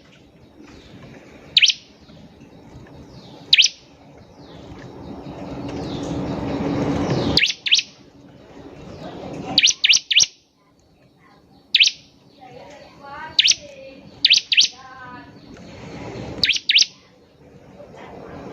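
Bar-winged prinia (ciblek) calling: sharp, high chirps every two seconds or so, some in quick pairs or triplets. A hiss swells up behind them and cuts off suddenly about seven seconds in, and a lower warbling trill comes between about thirteen and fifteen seconds.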